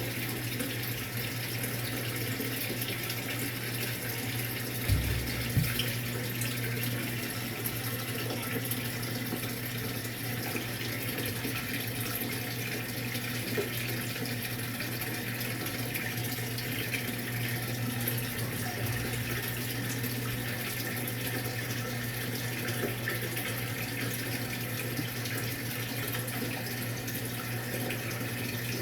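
Maytag MVWX655DW1 top-load washing machine filling its tub with water during a tub-clean cycle: a steady rush of running water over a low, even hum, with two low thumps about five seconds in.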